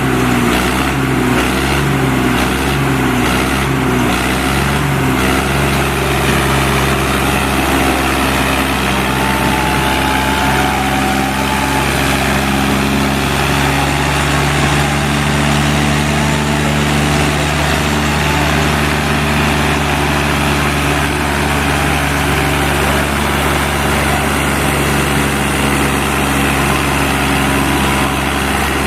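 Diesel tractor engines of a Mahindra Arjun 605 and a Swaraj 855 running hard under load as they pull against each other in a tug-of-war. The engine note wavers for the first few seconds, then holds steady.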